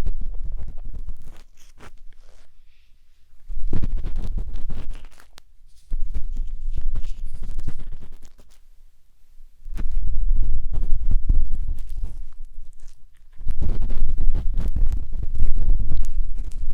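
A matchstick scraping and rubbing inside the silicone ear of a 3Dio binaural microphone. It is close and deep, in strokes of two to three seconds with short pauses between, about five in all.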